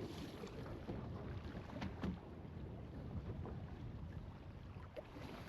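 Wind buffeting the microphone and choppy water slapping the hull of an anchored fishing boat, with a few faint knocks.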